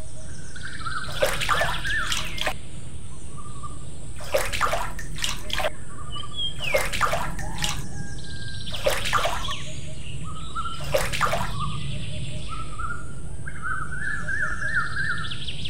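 Birds chirping and calling, with sharp sweeping calls every couple of seconds and warbling chirps, over steady low background noise.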